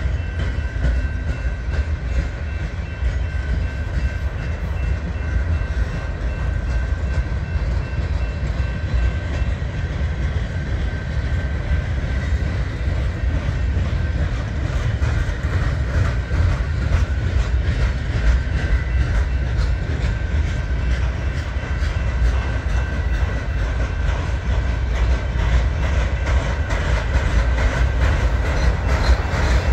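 Union Pacific freight train rolling past, its cars' steel wheels on the rails making a steady heavy rumble with a faint high ringing. The clicks of wheels over rail joints come thicker near the end.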